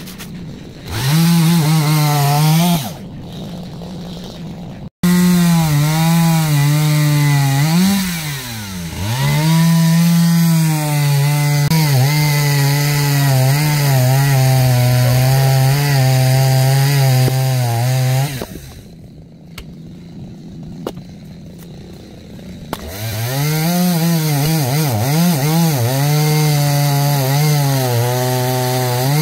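Two-stroke chainsaw cutting oak logs into firewood, its engine pitch sagging as the chain bites and climbing again as it frees. Twice it drops back to a quieter, lower-revving run for a few seconds, once early on and once past the middle, before it is throttled back up.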